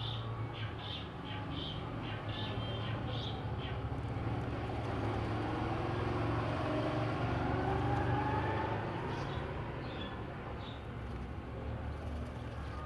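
A motor vehicle drives past, its engine sound swelling to a peak about eight seconds in and then fading over a steady low drone. In the first few seconds, and briefly again near the end, a bird gives short repeated calls.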